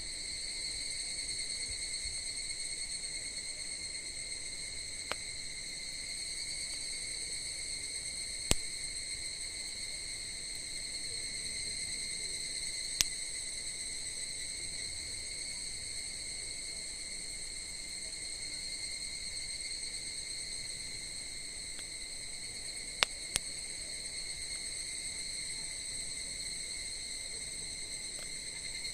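Steady trilling of crickets, unchanging throughout, with a few sharp pops from a burning wood campfire, two of them in quick succession near the end.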